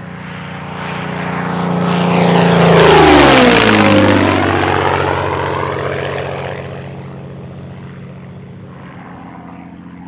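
Yak-3 fighter's piston engine and propeller in a low flypast. The sound builds to its loudest about three seconds in, drops sharply in pitch as the aircraft passes, then fades to a steady, distant drone.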